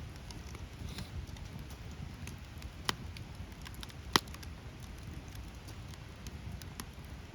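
Wood campfire crackling, scattered small snaps over a low steady rumble, with two sharp pops about three and four seconds in, the second the loudest.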